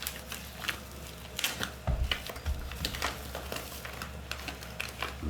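Plastic food packaging being handled: crinkling and rustling with scattered short clicks and taps.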